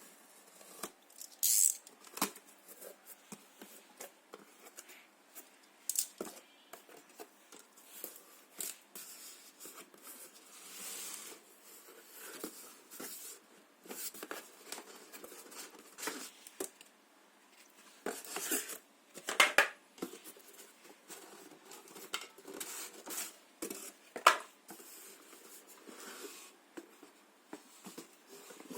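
Handling noises: scattered irregular clicks, taps and rustles, with a few sharper knocks.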